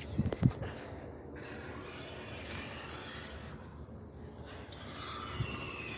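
Steady high-pitched insect trilling, like crickets, with a couple of low thumps about half a second in.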